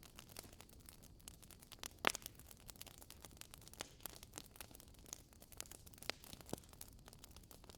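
Wood fire in a fireplace crackling: irregular sharp pops and snaps over a faint hiss, the loudest pop about two seconds in.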